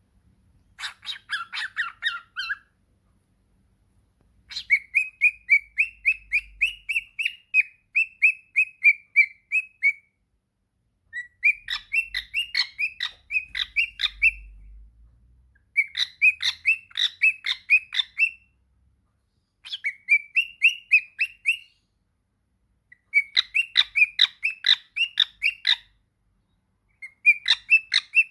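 Pet parrot calling in bouts of rapid, sharp chirps, many notes a second, each bout lasting two to five seconds with short pauses in between.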